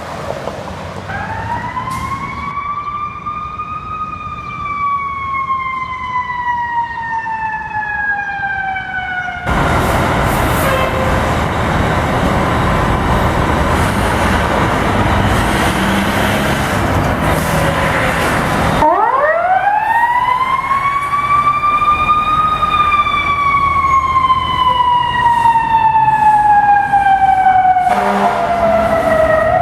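Fire truck siren wailing: a tone sweeps up, then falls slowly. About a third of the way in, a loud rushing noise covers it for about nine seconds. The siren then sweeps up sharply again and slowly falls, starting another rise at the very end.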